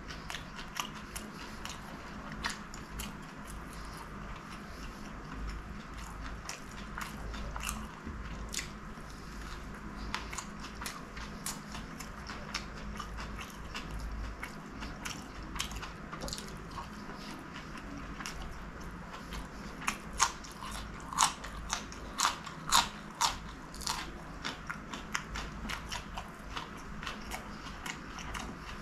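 Close-miked eating of fried chicken samosas: crisp pastry crunching and wet chewing clicks, with a run of louder crunches about two-thirds of the way through.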